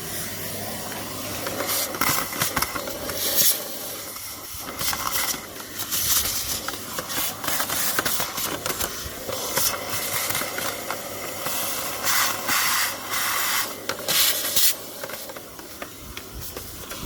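Vacuum cleaner running with its nozzle in an engine air filter housing, sucking out dirt, the hiss surging louder again and again as the nozzle moves over the casing and catches the edges.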